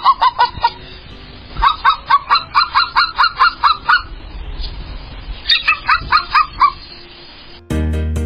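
A bird calling in three quick runs of sharp repeated calls, about five a second; music comes in near the end.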